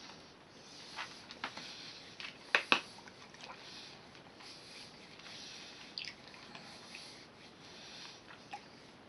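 Small hard Wonka Gobstopper candies being eaten: quiet, scattered sharp clicks and crunches of the hard candy against the teeth. The loudest come as a pair about two and a half seconds in.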